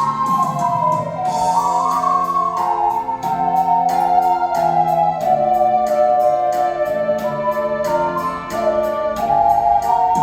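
Ocarina ensemble playing a slow melody in unison over a backing track of keyboard chords and a steady beat.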